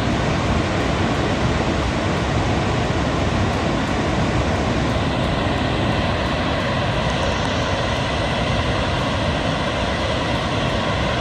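Upper Falls of the Genesee River at Letchworth rushing: a loud, steady roar of falling water.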